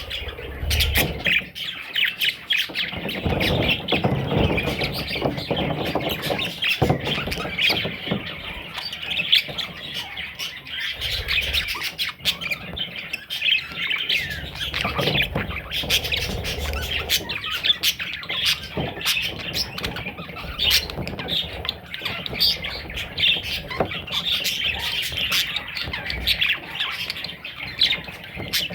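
Several budgerigars chattering and squawking continuously, with scattered sharp clicks and bumps among the calls.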